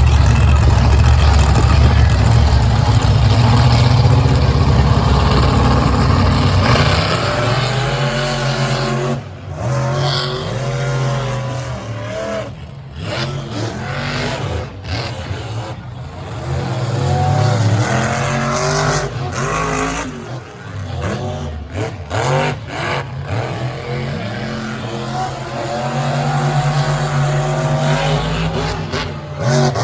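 Monster truck engines at high throttle, loud and steady for the first several seconds, then revving up and down with repeated lifts off the throttle for the rest.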